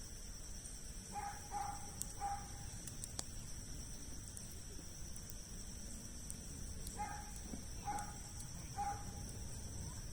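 Wood campfire crackling with scattered sharp pops over a steady high insect trill. Twice, a distant animal gives three short calls in a row.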